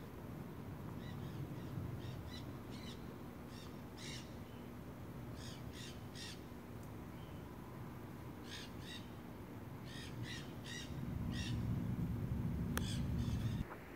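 A bird calling repeatedly in the background, short harsh calls in loose runs of two to five. About eleven seconds in, a low rumble rises, becomes the loudest sound, and cuts off abruptly just before the end.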